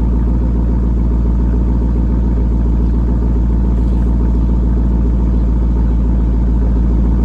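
Exhaust of a Camaro Z28's 5.7-litre LS1 V8 with the mufflers deleted (factory pipes otherwise, down to the tips), running steadily at an even, unchanging idle-like pitch.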